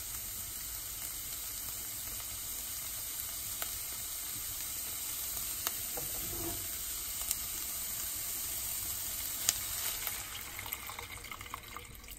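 Shredded chicken and onion sizzling steadily in a nonstick wok, with a few sharp pops. Near the end, chicken stock is poured in and the sizzle dies down.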